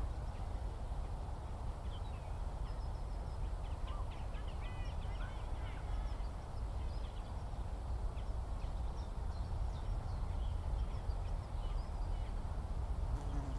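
Outdoor countryside ambience: small birds chirp and call on and off, with a brief flurry of chirps about four to six seconds in, over a steady low rumble.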